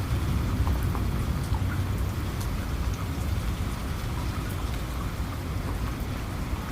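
Steady rain, with individual drops ticking sharply here and there over a continuous low rumble.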